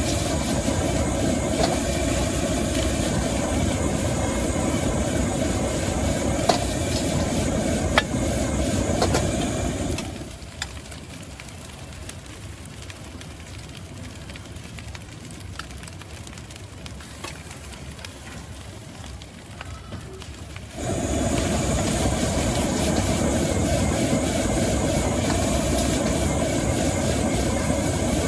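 High-pressure gas wok burner running loudly under a wok, with occasional sharp clicks of a spatula on the wok. About ten seconds in the loud noise drops away for some ten seconds, leaving a quieter background, then comes back.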